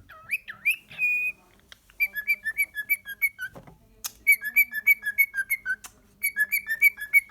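Cockatiel whistling its song in three runs of short notes, each run stepping back and forth between a higher and a lower note with brief pauses between runs. A few sharp clicks fall between the runs.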